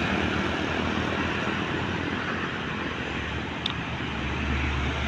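Road traffic passing: heavy vehicle engines running low, with tyre and road noise, easing off midway and building again near the end. A single short click about three and a half seconds in.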